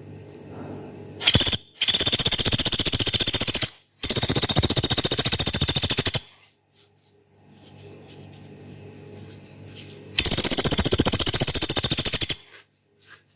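Pelatuk beras, a small pygmy woodpecker, giving long harsh rapid rattling calls: a short burst, then three rattles of about two seconds each, the last after a pause of about four seconds.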